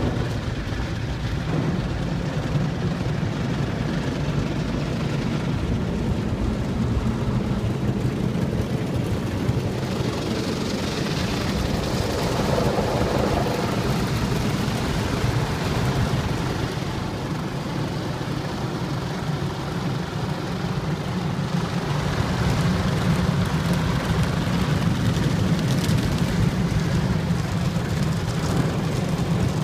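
Automatic car wash running: a steady low machine drone under a wash of spraying water that swells and eases off twice.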